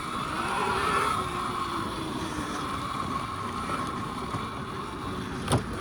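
Electric pit bike motor whining steadily while ridden, with wind buffeting the microphone. A single sharp knock comes about five and a half seconds in.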